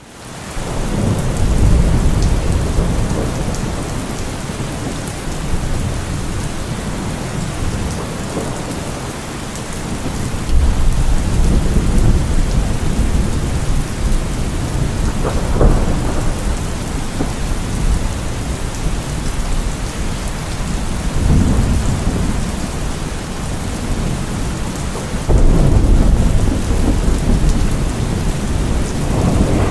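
Steady heavy rain with rolling thunder: deep rumbles swell and fade several times, loudest about ten seconds in and again near the end, with a sharper crack about halfway.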